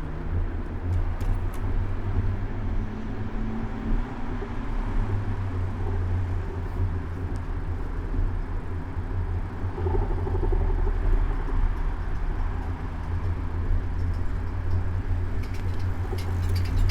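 City road traffic heard from a moving bicycle, as a steady low rumble with car noise over it. A few sharp clicks come near the end.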